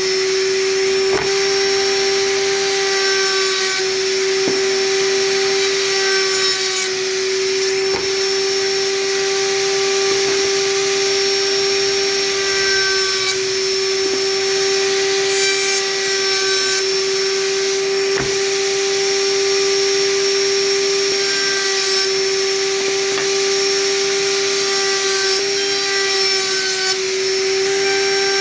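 Electric power tool running steadily at constant speed: an even motor whine over a dense hiss, with a few brief clicks.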